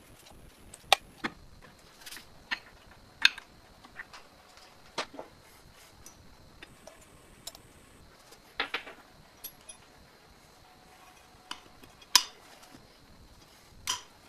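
Irregular sharp metallic clinks and taps of tools and metal parts being handled and set down, about a dozen in all, the loudest about a second in, a little after three seconds and near the end.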